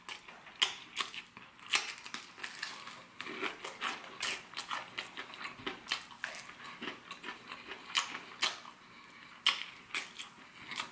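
A person biting and chewing crispy fried chicken up close, gnawing the meat off a bone, with irregular crunching crackles throughout.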